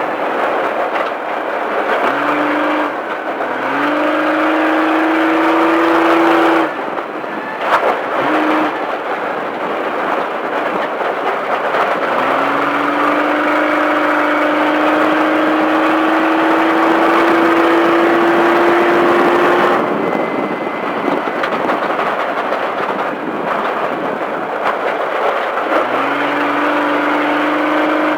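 Off-road race truck's engine under hard throttle, its pitch climbing steadily over several long pulls and breaking off suddenly each time the throttle is lifted, over a steady rushing noise.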